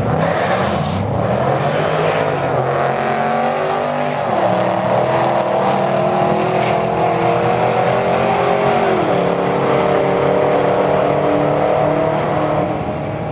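Nitrous-fed 426-cubic-inch V8 of a Dodge Charger SRT8 at full throttle down a quarter-mile drag strip. It launches and climbs in pitch, with two upshifts about four and nine seconds in, each a sudden drop in pitch before it climbs again.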